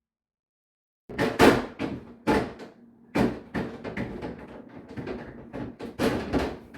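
Refrigerator shelves and drawers clattering and knocking as they are handled and slotted into the fridge, a string of sharp knocks starting about a second in.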